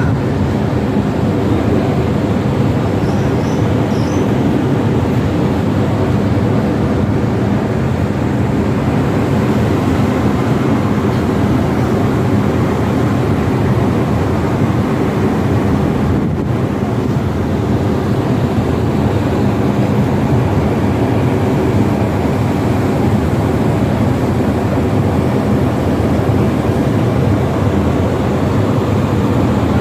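Steady, loud drone of the passenger ship KM Kelud's engines heard on board: a low, even hum with a few steady tones in it that holds without a break.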